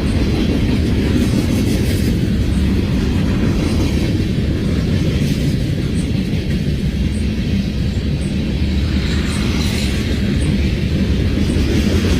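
CSX freight train rolling by: a steady low rumble of locomotive and railcars with faint, regular high ticks about once a second.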